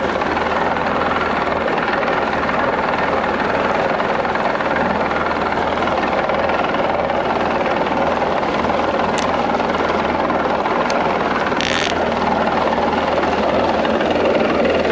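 A boat's motor running steadily under way, heard as an even rushing noise with a low hum, and a couple of short clicks late on.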